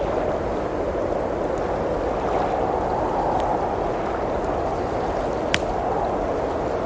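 Blizzard wind blowing steadily, swelling and easing slowly, with a few faint crackles from a wood fire and one sharper pop about five and a half seconds in.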